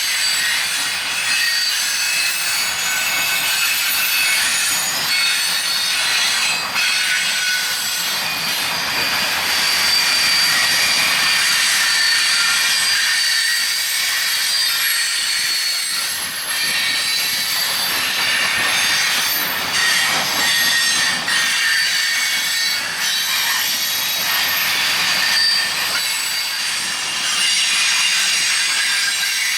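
Freight train's steel wheels squealing against the rails as the cars round a curve: many high, shifting tones over a steady rolling noise.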